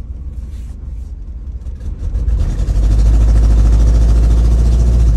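Toyota Matrix four-cylinder engine running, its revs rising about two seconds in and then held with a deep drone. It is misfiring ('a bad skip') because one cylinder has no spark from a failed coil, so it is running on three cylinders.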